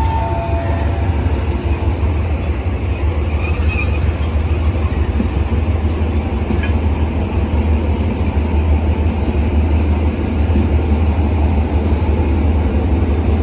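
Diesel locomotive engine running steadily with a loud, deep hum. There is a brief high tone near the start.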